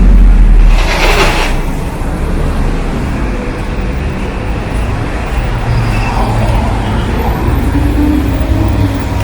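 Street traffic: a vehicle's engine rumbles loudly close by and fades within the first second, with a short hiss about a second in, then steady traffic noise with engines running.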